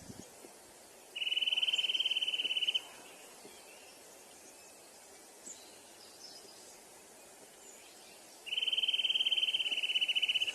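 A cricket trilling in two high, steady trills of about two seconds each, one about a second in and one near the end, over a faint outdoor background.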